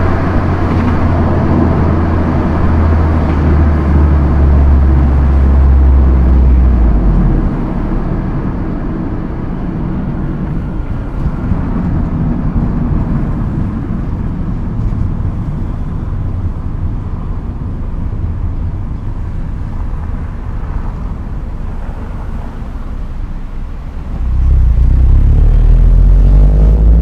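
Proton Inspira 1.8 manual's four-cylinder engine pulling hard at high speed with road noise. About a quarter of the way in it eases off to a quieter cruise. Near the end it comes back on the throttle with the engine note climbing.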